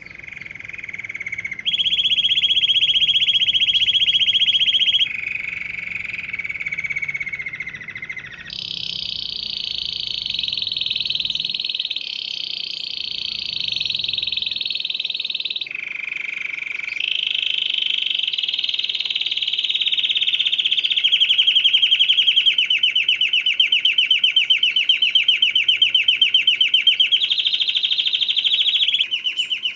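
Canary singing a long song of rapid trills. It switches to a new trill at a different pitch every few seconds.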